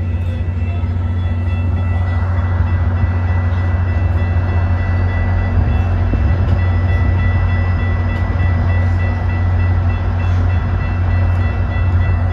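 Metra commuter train moving past the platform: a heavy steady low rumble with steel wheels running on the rails, and a thin steady high-pitched whine. The wheel-and-rail noise grows louder about two seconds in.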